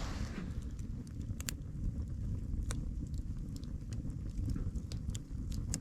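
Campfire crackling with scattered sharp pops, over a steady low rumble of wind on the microphone.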